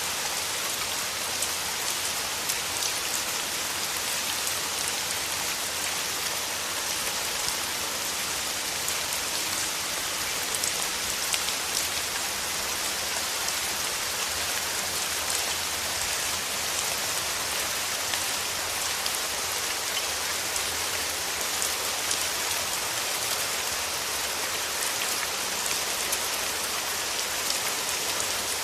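Steady rain falling through forest trees: an even hiss dotted with many small drop ticks.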